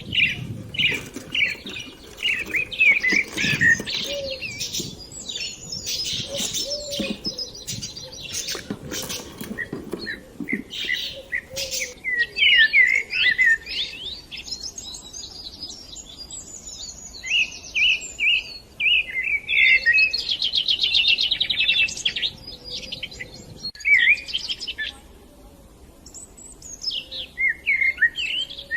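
A group of budgerigars chirping and chattering continuously, short rising and falling chirps with a rapid buzzy warble a little past two-thirds of the way through. A few low bumps sound in the first few seconds.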